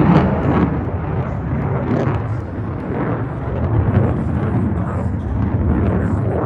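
Loud, continuous jet roar from the F-35A Lightning II's single Pratt & Whitney F135 afterburning turbofan, a deep rumbling noise with no clear pitch that swells and eases unevenly.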